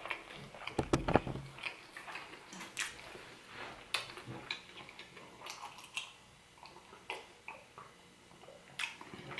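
Close-up chewing of a breakfast burrito: wet mouth clicks and smacks with a brief low hum about a second in, then a drink of orange juice from a glass near the end.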